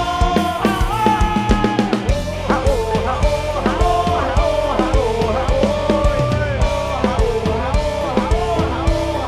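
Live band playing an instrumental passage: a drum kit keeps a steady beat under a lead melody of held, bending notes.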